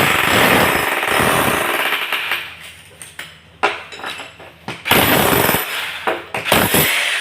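Electric demolition hammer chiselling into a tiled concrete floor to reach a leaking buried water pipe. It runs in loud bursts that stop and restart several times.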